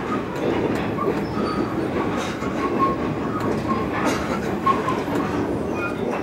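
Passenger train running along the track, heard from inside the carriage: a steady rolling rumble with short, faint squeaks recurring now and then.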